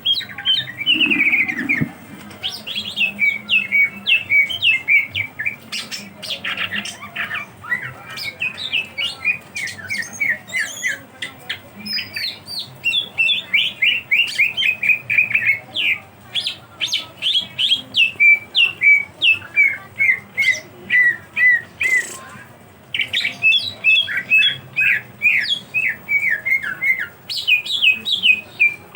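Cucak ijo (green leafbird) singing a long, loud, rapid song of short, sharply falling chirps repeated several times a second. The song breaks briefly about two seconds in and again about twenty-two seconds in.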